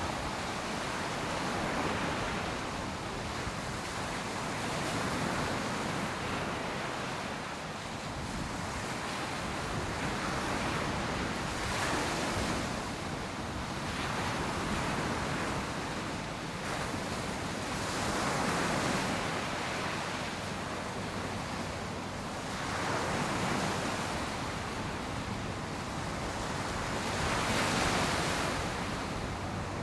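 Ocean surf breaking on a beach: a steady wash of waves that swells roughly every five seconds as each wave breaks and runs up the sand, with some wind on the microphone.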